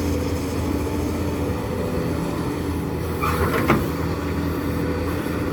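Excavator's diesel engine running steadily under work, with a brief scraping sound and a sharp knock about three and a half seconds in.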